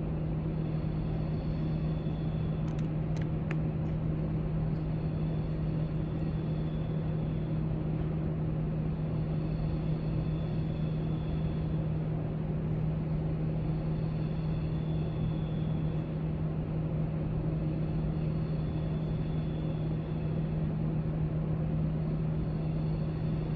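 Steady library room noise: a constant low hum with a few faint clicks about three seconds in.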